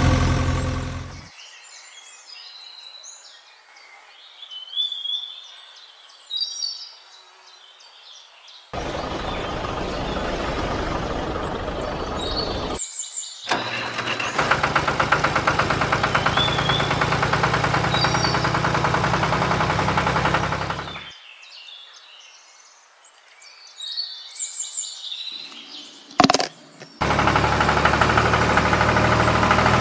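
Birds chirping in quiet stretches, broken by spells of an engine running steadily with a fast rattle. The longest spell is in the middle and another starts near the end.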